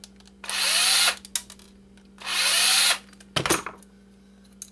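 Power drill backing screws out of the phone's small video camera housing in two short bursts, each spinning up in pitch. A few sharp clicks and knocks follow at about three and a half seconds.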